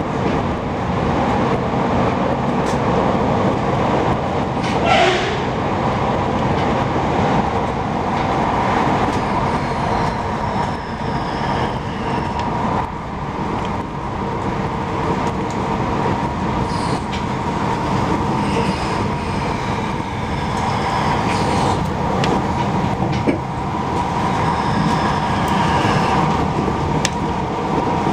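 Passenger train running at speed, heard from inside the carriage: a steady rumble and rush of the wheels on the track. Faint high whines come and go, and there is a sharp click about five seconds in.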